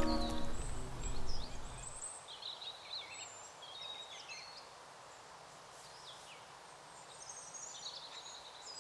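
A music track fades out over the first two seconds. Faint birdsong follows, scattered high chirps and short phrases, over quiet outdoor ambience.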